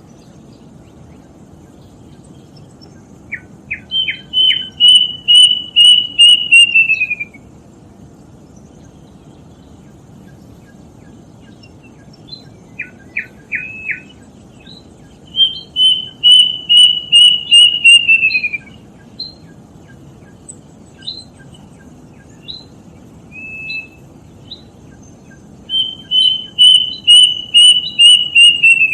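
Kedasih (plaintive cuckoo) singing three times. Each song opens with a few short notes, then runs into a string of about ten quick whistled notes on one pitch that slide downward at the end. Between songs there are a few scattered single notes over a steady low background hum.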